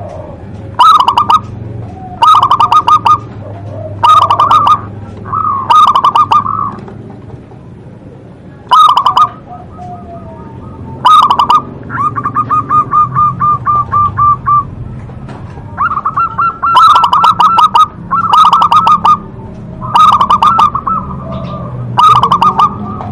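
Zebra dove (perkutut) singing: loud, short bubbling cooing phrases repeated about every two seconds. Near the middle comes a long, rapid trill of even notes, and then the phrases return closer together.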